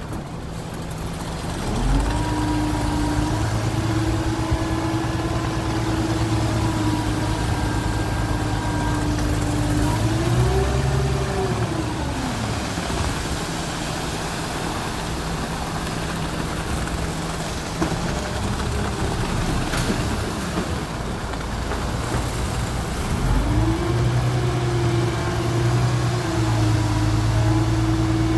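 An engine held at raised speed with a steady drone. It speeds up about two seconds in, climbs a little more near ten seconds, drops back to a low idle around twelve seconds, and speeds up again about twenty-three seconds in.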